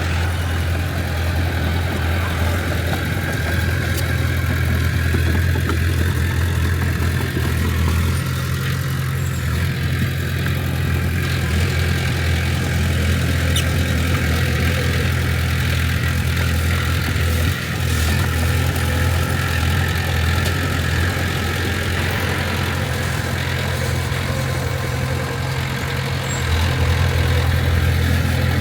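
Heavy diesel engine of earthmoving machinery running steadily at a low, even pitch, dipping briefly about two-thirds of the way through and rising a little near the end.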